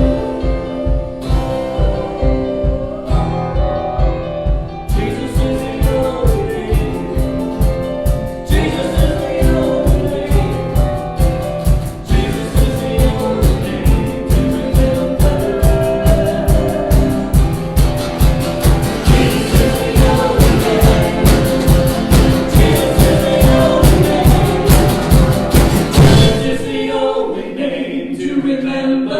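Contemporary Christian worship song with singing over a band and a steady drum beat. The drums and cymbals build up fuller in the first few seconds, then drop out briefly near the end.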